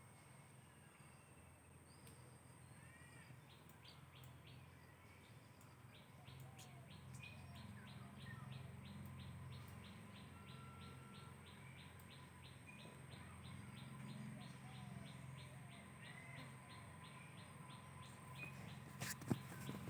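Faint outdoor ambience with distant birds chirping and a fast, even ticking of about four beats a second over a low hum. A few sharp knocks come near the end.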